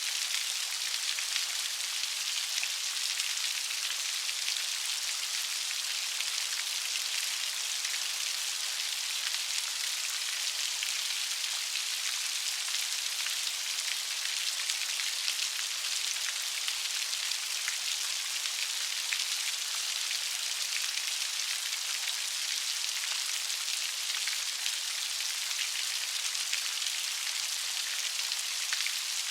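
Steady light rain falling on a surface: an even patter of many fine drops that neither builds nor fades.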